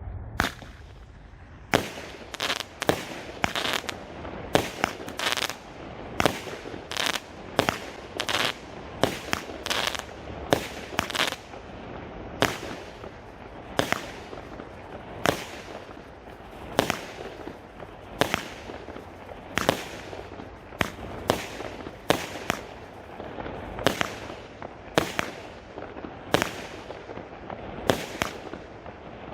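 Fireworks, a multi-shot firework battery firing shot after shot: a steady string of sharp bangs, about one or two a second, some in quick pairs, with crackling between them.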